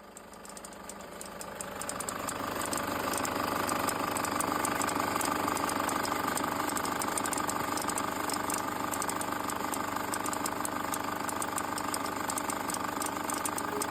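Toyota HiAce KDH200V's 1KD-FTV diesel engine idling with a fast ticking from the belt drive, fading in over the first couple of seconds: the auto-tensioner pulley is loose and wobbling.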